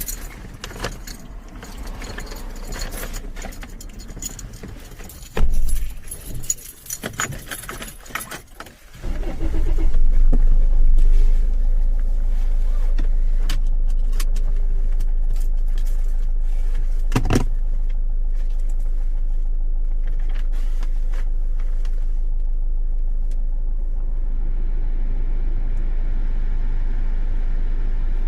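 Keys jangling and rustling inside a car, with a thump about five seconds in. About nine seconds in the car's engine starts, briefly louder, then settles into a steady idle, with a single sharp click later on.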